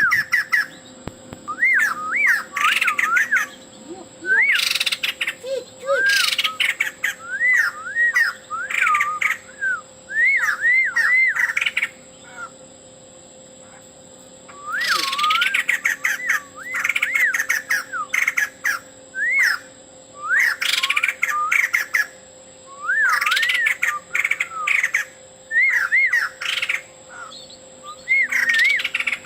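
Male white-crested laughingthrush singing: bouts of quick rising-and-falling whistled notes mixed with harsh, raspy calls, broken by short pauses and a longer pause about twelve seconds in.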